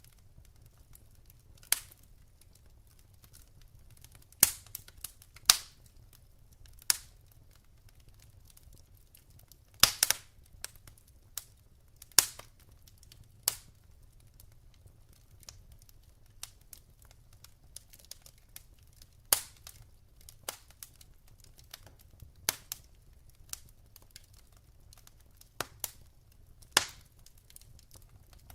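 Wood fire crackling, with irregular sharp pops and snaps of burning logs over a faint low rumble.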